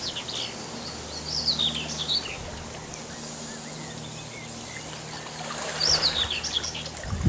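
Small songbirds singing short, quick high phrases, about a second and a half in and again about six seconds in, over a faint steady low hum and outdoor background noise.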